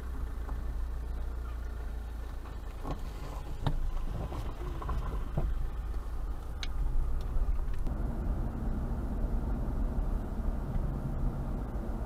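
Car engine running at crawling speed, heard from inside the car as a steady low rumble, with a few light clicks and knocks in the middle.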